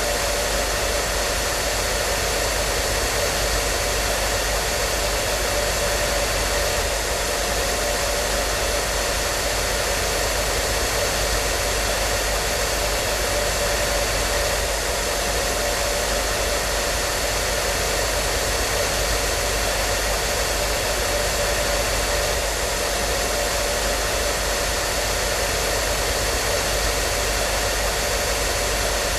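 Hair dryer running continuously at a steady speed: an even rushing airflow with a faint steady motor whine.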